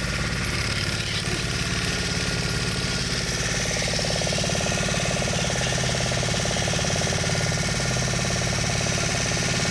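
Boat engine running steadily at a constant speed, with a fast even pulse.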